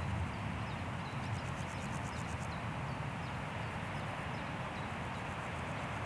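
Wind rushing steadily through forest trees, with a small bird giving short, high chirps over and over and a fast, high insect trill coming and going.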